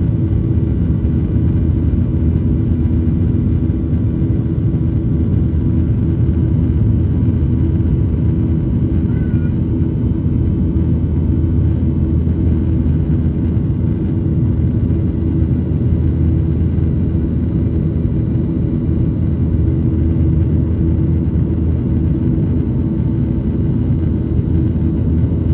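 Boeing 737-900's CFM56-7B turbofan engines running at steady power: a loud, even rumble with a constant hum that does not change.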